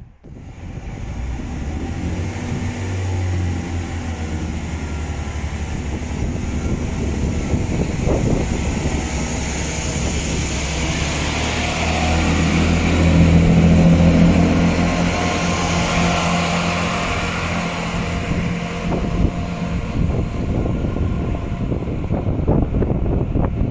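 A train passing, with a low steady engine hum and a hiss of wheel and rail noise. It grows loudest about thirteen to fourteen seconds in and eases off after.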